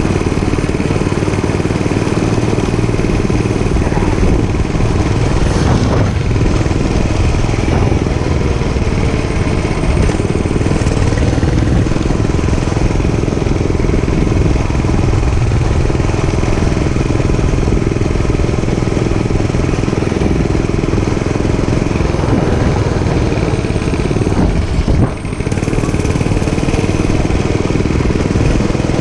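Dirt bike engine running steadily under way, with a brief dip in loudness about three-quarters of the way through.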